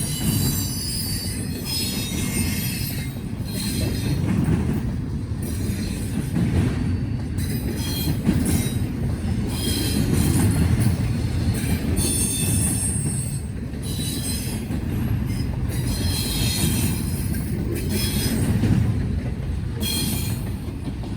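Freight train cars rolling past with a steady low rumble, steel wheels squealing in high-pitched bursts on and off throughout.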